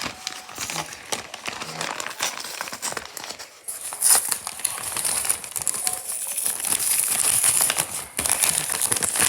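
Packaging crinkling, crackling and tearing as a parcel is opened by hand. It gets louder and hissier from about four seconds in.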